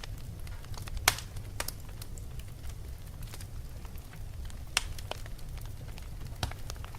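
Wood fire crackling: a steady low rumble under scattered small crackles, with a few sharper pops, the loudest about a second in and others near five and six and a half seconds.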